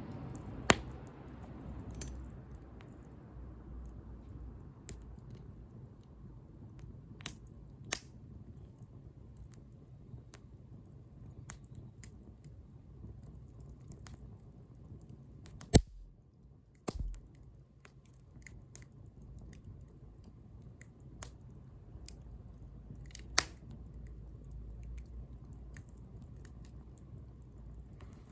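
Wood bonfire crackling: scattered sharp pops over a low steady rumble, the loudest pop a little past halfway.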